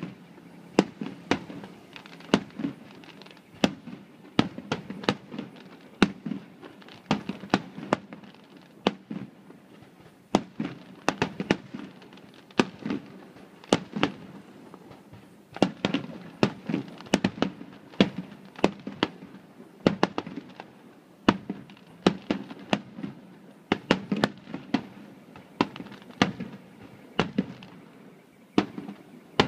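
Aerial firework shells bursting in a rapid, irregular string of sharp bangs, about one to three a second, each trailed by a low rumble.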